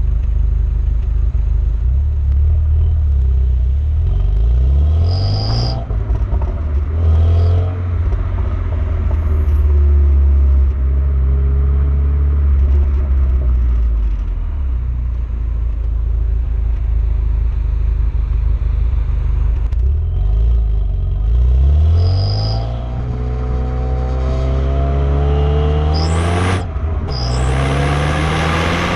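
Renault Megane R26's turbocharged 2.0-litre four-cylinder engine and exhaust under way, with a deep rumble. The revs climb several times, dropping back between climbs. A loud rushing hiss comes near the end.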